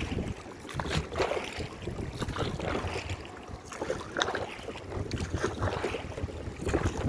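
Water splashing and lapping around a hand-rowed boat, with irregular short splashes or knocks from the oar strokes and wind rumbling on the microphone.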